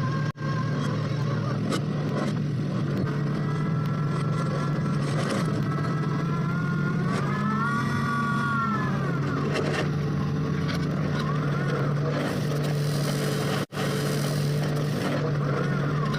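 Engine of a well-drilling machine running steadily at a constant speed. About halfway through, a higher tone rises and falls over a couple of seconds.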